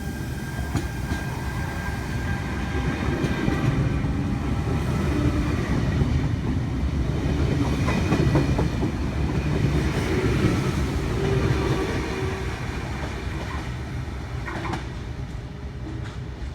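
Electric passenger train moving past along the platform, wheels clicking over the rail joints. It builds to its loudest about halfway through, then fades.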